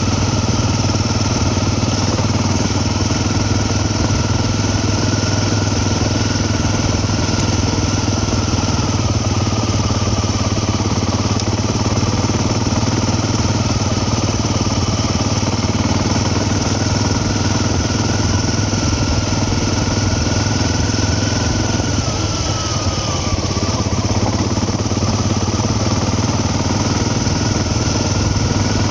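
A vehicle's engine running steadily under way, with a constant drone of engine and road noise. A faint whine in it dips in pitch about ten seconds in and again around twenty-two seconds, as the engine speed eases off.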